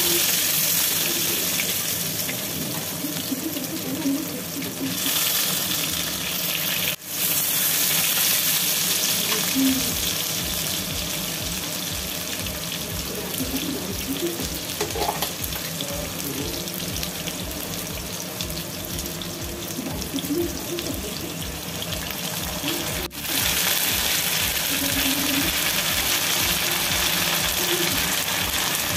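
Potato wedges sizzling steadily in hot oil in a metal wok, turned with a spatula at the start. The sizzle drops out briefly twice.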